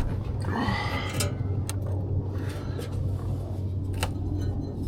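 A few sharp metal clicks and knocks of hand tools working on the car's exhaust, over a steady low hum. A short rising squeal-like tone comes about half a second in.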